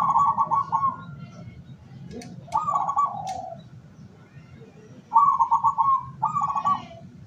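Zebra doves (perkutut) cooing: quick trilled coo phrases, one at the start, one about two and a half seconds in, and a double phrase about five seconds in. Faint chirps of small birds and a couple of sharp clicks come between the phrases.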